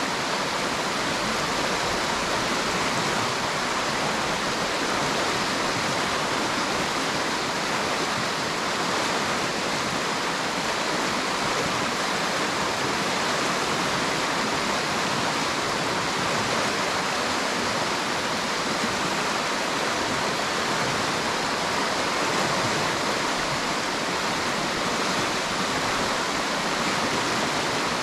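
River water rushing steadily over rocks, a continuous even hiss of flowing water.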